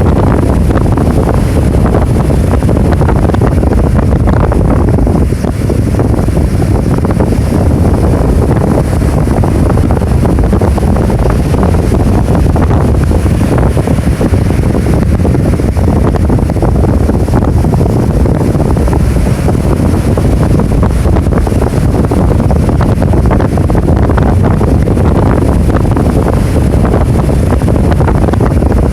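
Heavy storm surf whipped up by an approaching typhoon: white-capped waves breaking continuously, with strong wind buffeting the microphone. A loud, steady low rumble with no let-up.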